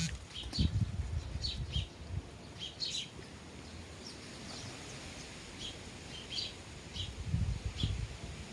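Sparrows chirping at bird feeders: short, separate chirps scattered irregularly, a dozen or so over the few seconds. A low rumble comes and goes underneath, strongest about half a second in and again near the end.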